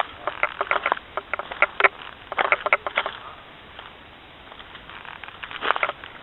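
A hiker's footsteps on the trail, each step a quick cluster of sharp crackles, with a lull of about two seconds in the middle.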